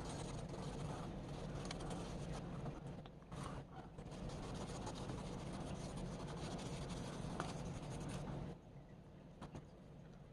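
Steady hand scrubbing or rubbing on an antique rip saw, a rough scratchy abrasive sound with a short break after about three seconds, stopping about eight and a half seconds in.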